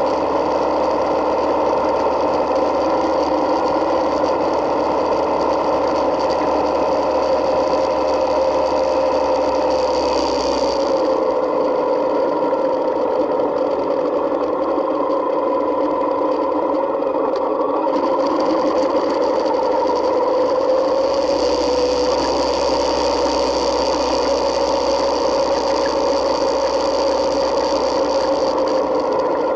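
Yamaha Midnight Star 1900's V-twin engine running at a steady road pace, heard through a camera mounted on the motorcycle. The engine note dips a little about ten seconds in and picks up again about twenty seconds in.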